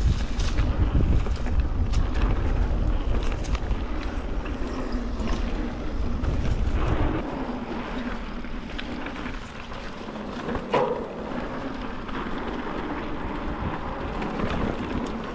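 Mountain bike riding over a dirt trail: wind buffeting the microphone, with tyre noise and short rattles and knocks from the bike. The wind noise drops about seven seconds in, and there is one sharper knock near the end.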